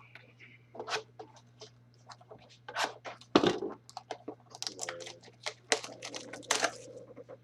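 Trading card packs and their wrappers being handled and torn open: a rapid, irregular run of rips, crinkles and clicks.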